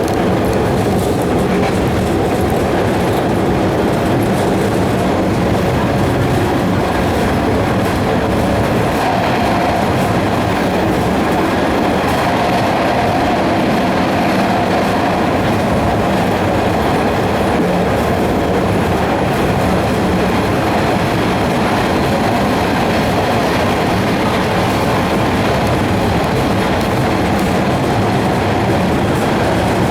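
MBTA Red Line subway car running along the track, heard from inside the car: a steady, loud noise of wheels on rail, with a faint whine that comes in for a few seconds about a third of the way through.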